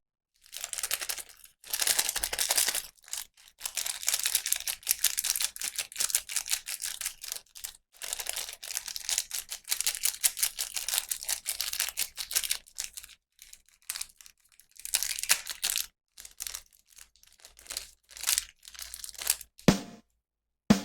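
Plastic packaging being crinkled and torn open during a toy unboxing: dense, irregular crackling in long clusters, thinning out to a few short crinkles near the end.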